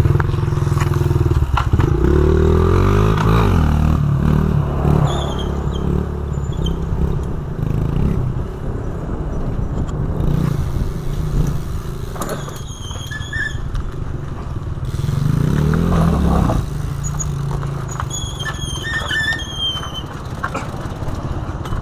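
Dirt bike engine running, revving up twice: about two seconds in and again around fifteen seconds.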